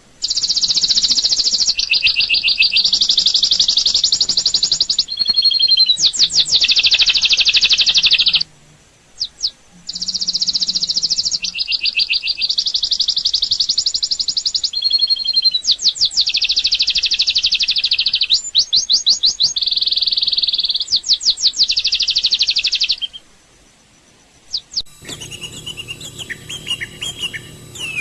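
A songbird singing loud, rapid, high-pitched trilled phrases in long runs, with two breaks. Near the end, quieter scattered chirping from other birds sets in over a low hum.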